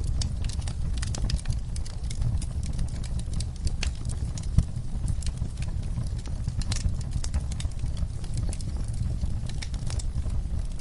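Campfire crackling: burning wood snapping and popping in quick, irregular clicks over a low steady rumble of the flames, with one sharper pop about four and a half seconds in.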